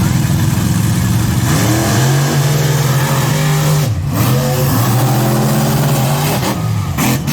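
Monster truck engine revving hard, its pitch climbing twice, with a brief drop about four seconds in as the throttle comes off and goes back on.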